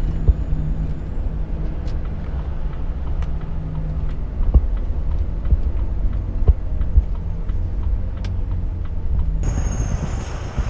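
Volvo truck's diesel engine and road rumble heard from inside the cab, with scattered knocks and rattles. About nine seconds in, a brighter hiss with a high whine joins the rumble.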